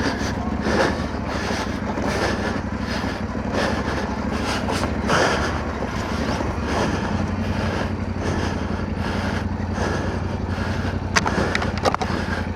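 Motorcycle engine running steadily, with rough noise over it and a few sharp clicks near the end.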